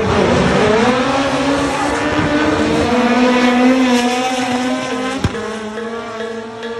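Race car engines running hard at high revs, the pitch dipping and then climbing as a car speeds past and accelerates. A single sharp click about five seconds in.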